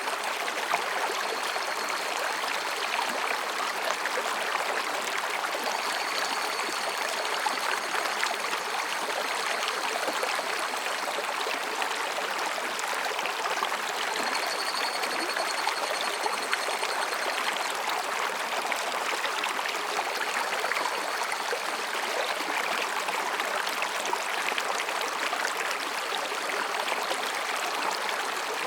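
A rocky mountain stream babbling steadily over and between rocks. Faint high-pitched calls of higurashi (evening cicadas) come and go a few times behind the water, most clearly about halfway through.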